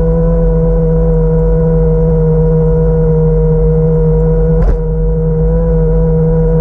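Steady engine hum holding one pitch, with a single sharp click about four and a half seconds in.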